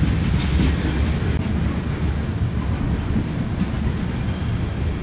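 Freight train rolling past: a steady low rumble of railcars on the track, with a few faint sharp clanks.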